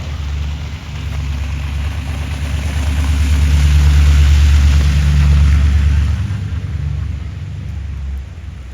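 A motor vehicle passing close by on the street: a low engine rumble and tyre hiss build to a peak about halfway through, then fade away.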